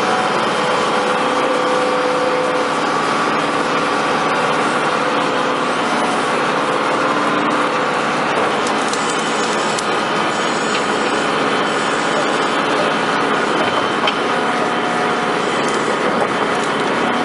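Engines of construction equipment running steadily: a constant engine sound with a few held tones, with a couple of faint clicks late on.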